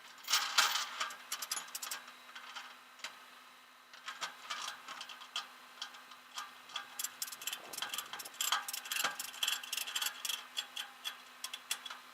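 Irregular run of sharp clicks and ticks, a quick cluster at the start and a denser stretch in the second half, over a faint steady hum.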